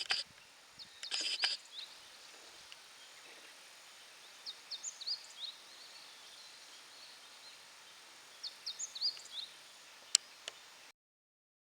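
Faint outdoor ambience with a small bird calling: two short runs of quick, high chirps, about four seconds apart. A brief rustle or knock comes about a second in, and a single sharp click near the end, after which the sound cuts off.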